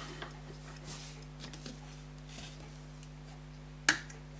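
Faint rubbing and light handling of a silver pocket watch, then one sharp click near the end as its case is worked, over a steady low hum.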